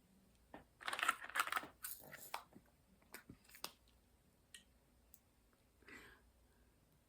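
Soft rustling and scattered light clicks of things being handled close to the microphone, busiest in the first two and a half seconds, with a few single clicks after and another brief rustle about six seconds in.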